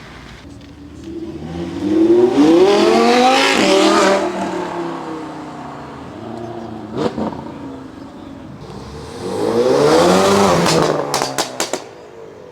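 Cars accelerating hard as they leave a car meet, two in turn, each engine revving up and then dropping away. A single sharp crack comes in the middle, and a quick run of sharp cracks follows near the end.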